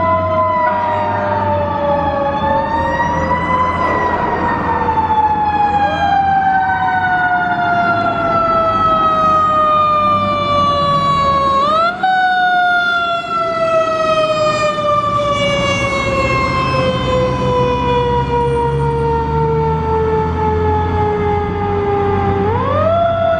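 Fire truck sirens wailing as the apparatus respond. A siren climbs quickly and then falls slowly over several seconds, three times, with a second siren overlapping near the start, over a low truck engine rumble.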